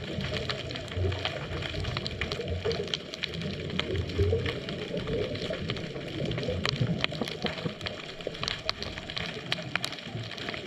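Underwater ambience picked up by a GoPro in its housing: a steady low rumble with many scattered sharp clicks and crackles.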